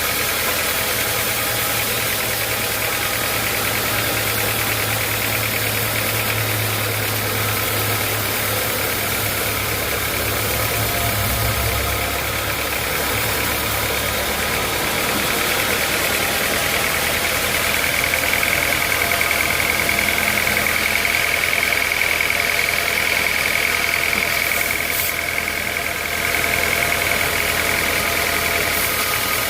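Sawmill machinery running steadily with a low, even hum. A higher whine joins it from about two-thirds of the way in and fades near the end.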